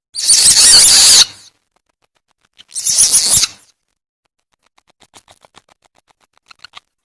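Civet call played as a hunting lure: two harsh, noisy screeches about a second long each, roughly two seconds apart, then a rapid run of faint clicks near the end.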